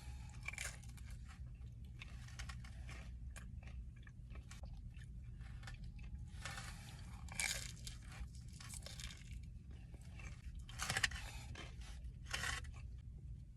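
Close-miked chewing and crunching of food in the mouth, in irregular bites with a few louder crunches, the loudest about seven and eleven seconds in, over a steady low hum.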